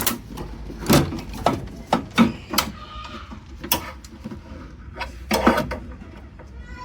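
Irregular metal clanks and rattles as sheet-metal and cast parts of a gas hot water heater are handled and pulled apart during dismantling.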